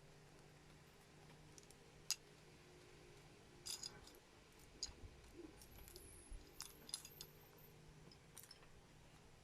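Plastic building bricks clicking as they are handled and pressed together: scattered sharp clicks, the loudest about two seconds in and again near the middle, over a faint low hum.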